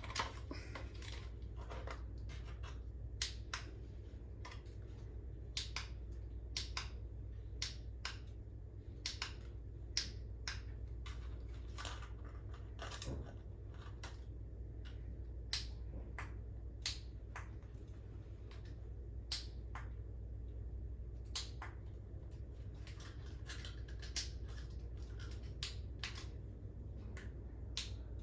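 Irregular light clicks and taps of small hard objects being handled, scattered every second or so, over a steady low hum.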